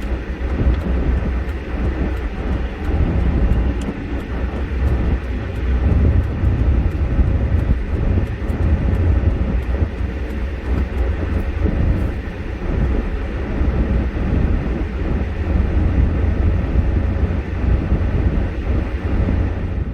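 Steady low road rumble of a vehicle driving, continuous throughout with a few faint ticks.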